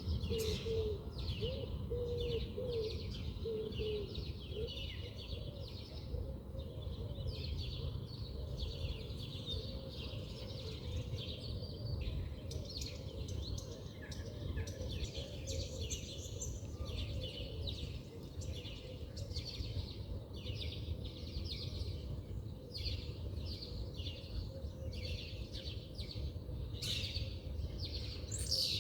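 Several small birds chirping and twittering, with quick high calls overlapping throughout. A low, wavering call repeats during the first few seconds, all over a steady low background rumble.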